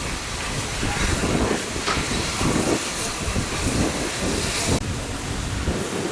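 Bulleid steam locomotive working, with a steady hiss of steam over a low uneven rumble; the hiss cuts off suddenly about five seconds in.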